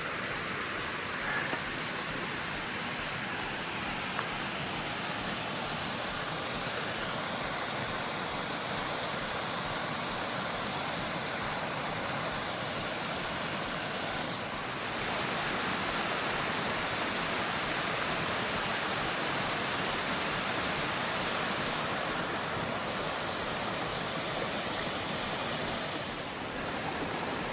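Small woodland creek waterfall and cascades, water rushing over the rocks in a steady, even rush that gets a little louder about halfway through.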